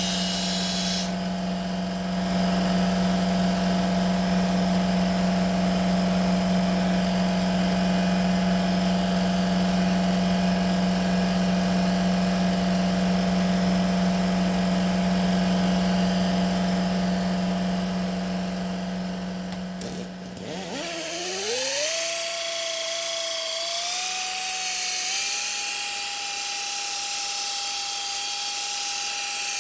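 Electric power tool motor running at a steady speed. About two-thirds of the way through it slows and cuts out, then a motor spins up with a rising whine and settles at a higher, steady speed, stepping up once or twice.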